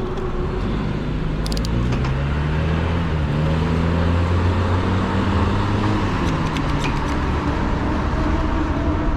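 Road traffic: a motor vehicle's engine and tyres hum past, swelling and fading over a few seconds, over steady wind noise on the microphone.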